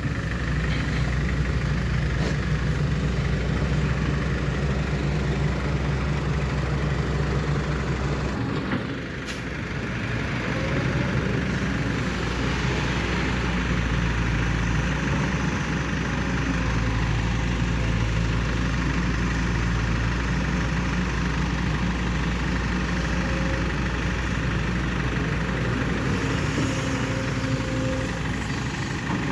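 Diesel engines of a Kobelco SK200-8 excavator working and a six-wheel dump truck running while the excavator loads the truck's bed. The engine note dips briefly about eight seconds in, then steadies again.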